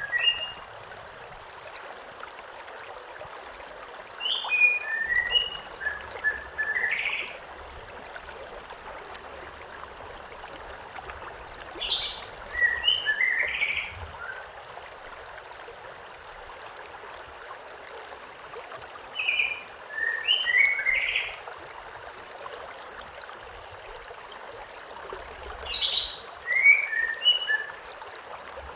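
A songbird repeats a short phrase of quick chirping notes four times, about seven seconds apart, over the steady rush of a river or stream.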